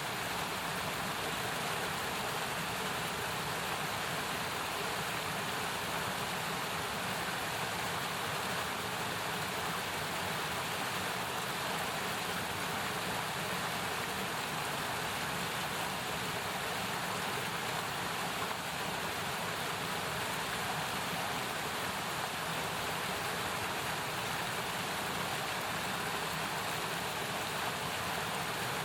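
Mountain stream flowing: a steady rushing of water, unchanging throughout.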